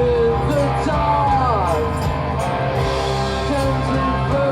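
Live rock band playing a slow, droning song: a steady low drone under sliding, wavering melodic lines.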